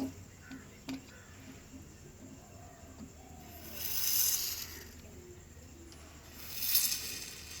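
Two hissing rushes, the first about a second long and the second shorter, with a few light clicks before them.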